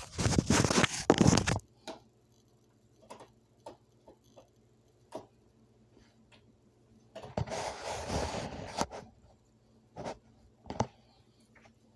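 Rustling, handling noise in the first second and a half and again for a second or two past the middle, with scattered single light clicks and taps in between.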